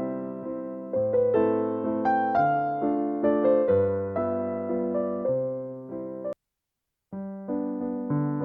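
Background piano music, a slow sequence of struck notes each dying away. It cuts out to silence for under a second about six seconds in, then starts again.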